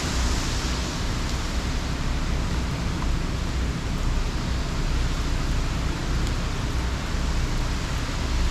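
Hurricane rain and wind: a steady hiss of heavy rain, with a low rumble that rises and falls underneath.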